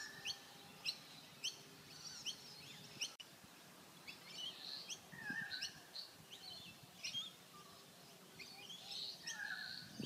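Songbirds calling: short high chirps repeating about twice a second, mixed with warbling calls and a lower drawn-out call that comes back every few seconds.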